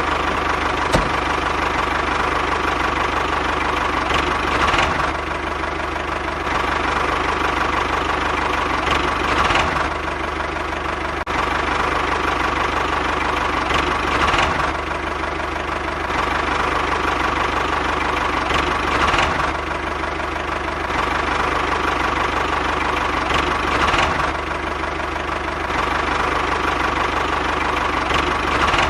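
Steady engine-like running hum with a constant whine, swelling evenly about every five seconds.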